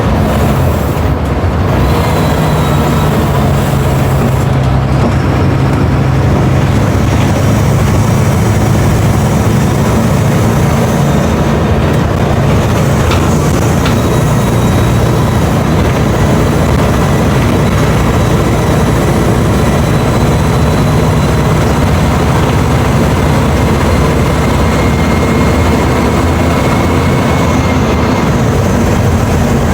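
Mercedes-Benz OF 1721 BlueTec 5 bus's diesel engine running steadily at an even speed, with a broad rushing noise over it.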